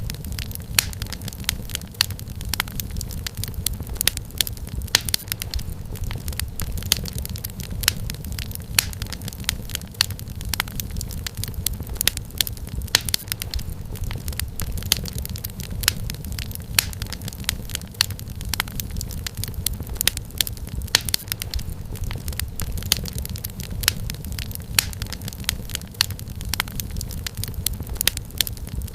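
Wood fire crackling in a fireplace: dense, irregular sharp pops and snaps, several a second, over a steady low rumble of the burning logs.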